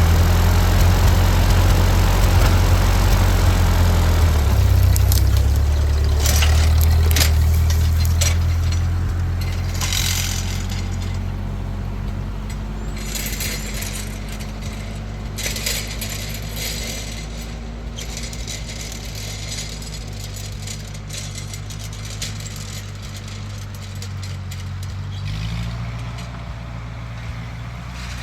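Backhoe tractor engine running, loud for the first several seconds and then easing to a lower, steady level, with a shift in its pitch near the end. Scattered metallic clinks and rattles sound through the middle.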